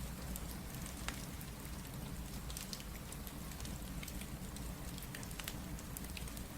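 Steady rain mixed with a crackling fireplace: an even rain hiss over a low rumble, with scattered sharp crackles and pops throughout.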